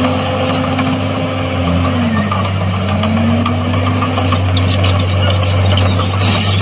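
Heavy diesel engine of earthmoving machinery running steadily, its pitch dipping about two seconds in and then climbing back as the load changes.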